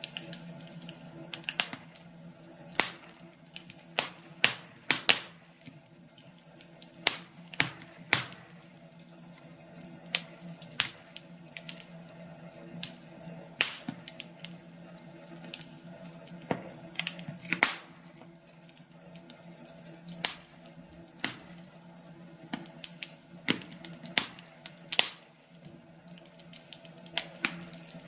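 Wood fire burning in a fireplace, crackling with irregular sharp pops and snaps over a faint steady hum.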